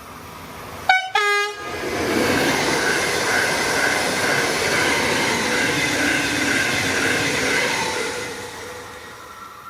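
Electric regional train sounding its two-tone horn briefly, a high note then a lower one, then rushing past with a steady whine over the rail noise before it fades away.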